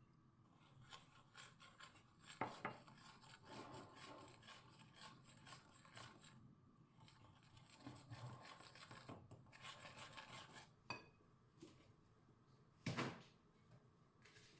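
Quiet scraping and rubbing in short, quick strokes, with light clinks, and one louder knock near the end.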